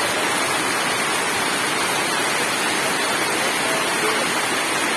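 Heavy tropical downpour: a steady, even hiss of rain.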